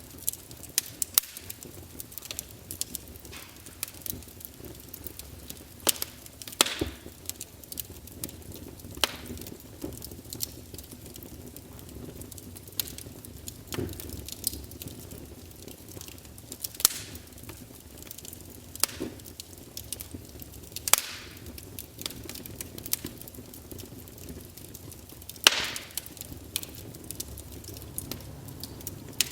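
Wood fire crackling in a fireplace: irregular sharp pops and snaps over a low, steady rumble of the flames, with a few louder pops scattered through.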